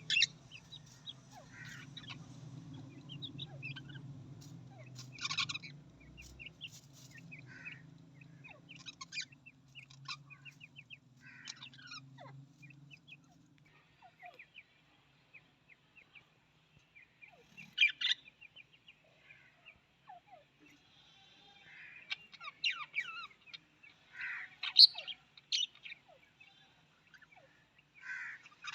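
Budgerigars chirping and chattering: many short, quick calls and warbles, with a few louder, sharper calls in the middle and near the end. A low steady hum sounds underneath for the first half and then stops.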